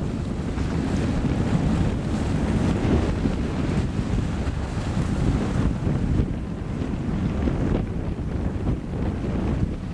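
Wind buffeting the microphone, with water washing along a sailboat's hull.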